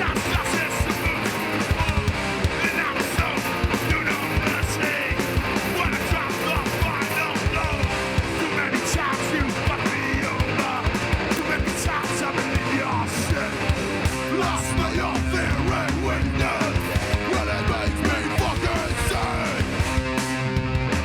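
Heavy hardcore band playing live: loud distorted electric guitars and bass over fast, pounding drums. The riff changes about two-thirds of the way through into longer held guitar chords.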